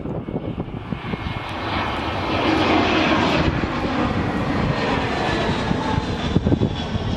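Jet aircraft engines passing during a touch-and-go run. The noise builds over the first two to three seconds and then holds steady, with a faint high whine.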